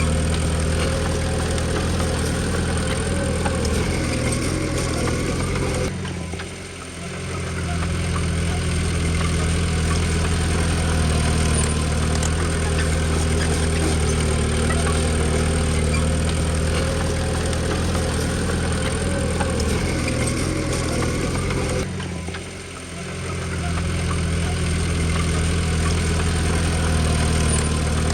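Diesel engine of a heavy machine running steadily. The sound drops away sharply about six seconds in and again about sixteen seconds later, each time building back up within a second or so.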